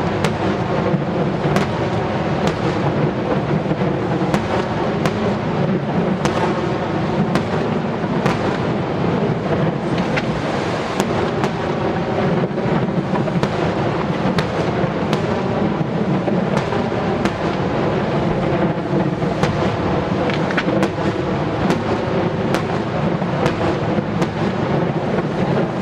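Fireworks display in a continuous barrage: a dense rolling rumble of shell bursts with many sharp crackles and cracks scattered throughout.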